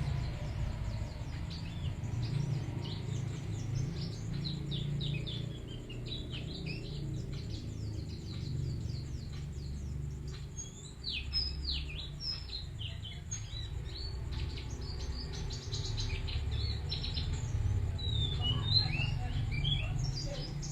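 Pleci bustomi white-eye singing vigorously, a fast unbroken run of high chirps and short twittering trills, over a steady low rumble.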